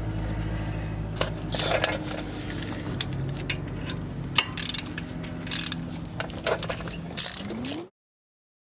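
Scattered metal clicks and clinks of hand tools and brake parts being handled while a brake caliper is bolted back on, over a steady low hum. The sound cuts off suddenly near the end.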